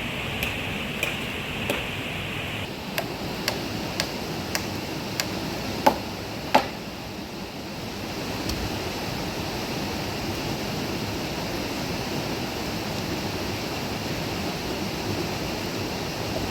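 Steady rushing water, with a run of sharp knocks about every half second through the first six seconds, the last two loudest; after that only the water.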